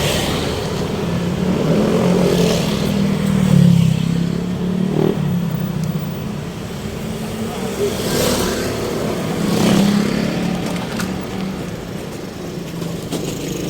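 Road traffic: motor vehicles running and passing by, with an engine hum that swells and fades several times.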